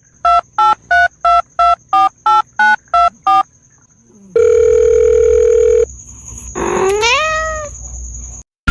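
Ten telephone keypad dialing tones in quick succession, then a steady phone tone lasting about a second and a half, then a cat's single meow rising in pitch.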